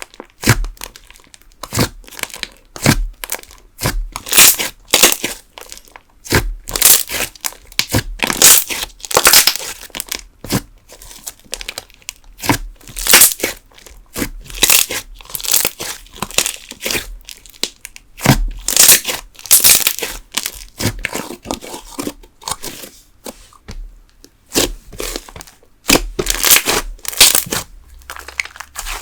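Thick candle slime worked by hand, giving dense, irregular crackling and popping.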